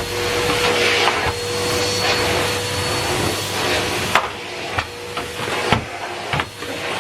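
Numatic Henry Pet vacuum cleaner running with a steady rushing suction noise and a faint hum. About four seconds in the hiss thins out, and several sharp knocks and clicks follow.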